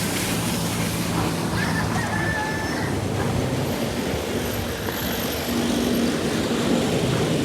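Steady hiss of water spraying over a pump motor's hum at a car wash, with a brief high tone about a second and a half in.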